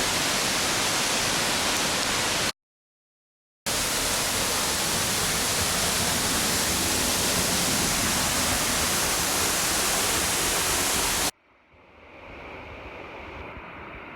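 Waterfall rushing close to the microphone as a loud, even roar. It cuts out to dead silence for about a second early on, then returns. Near the end it drops suddenly to a much quieter flow of water.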